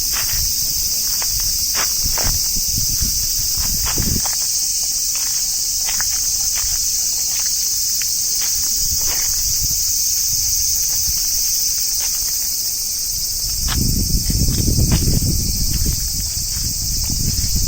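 A dense chorus of cicadas singing steadily and loudly, with a few scattered clicks and a low rumble swelling briefly about fourteen seconds in.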